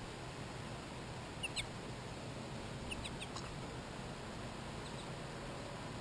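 Short, sharp, downward-sliding bird calls over a steady hiss: a pair about a second and a half in, a quick run of three around three seconds, and two faint ones near the end.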